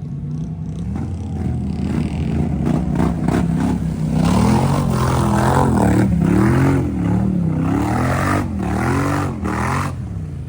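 Off-road vehicle engine revving hard, with the throttle worked up and down again and again, building over the first few seconds and dropping off abruptly near the end.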